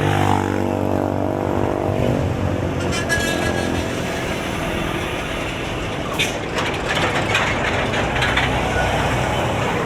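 Town street traffic: a vehicle engine runs close by for about the first two seconds, then gives way to general traffic noise with a few short clacks and knocks.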